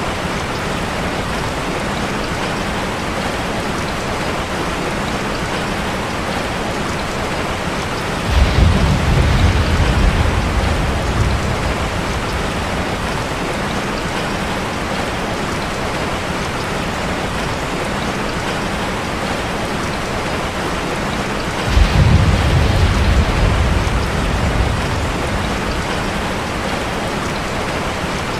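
Steady rain falling on a metal roof. Two low rolls of thunder break in suddenly, one about a third of the way through and another about three-quarters through, each fading over a few seconds.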